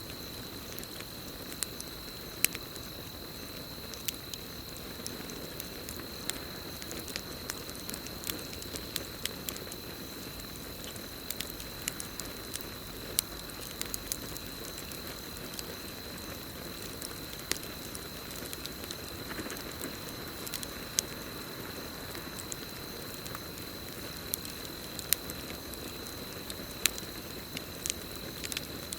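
Campfire burning with a low steady rush and irregular sharp crackles and pops, under a steady high-pitched chorus of crickets.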